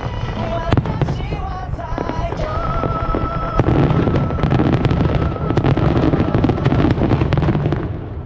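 Fireworks display: repeated bangs, then a dense run of crackling that starts sharply about three and a half seconds in and eases off near the end.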